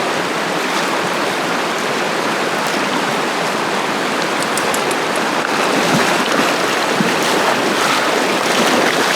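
River water rushing over rocks: a steady rush that gets a little louder about halfway through.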